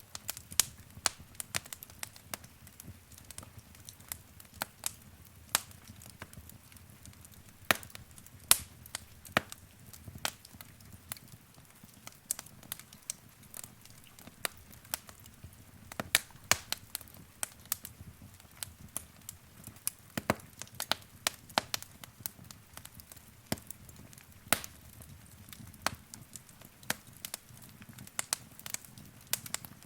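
Wood fire in a fireplace crackling, with irregular sharp pops and snaps, several a second, over a soft low rumble of the flames.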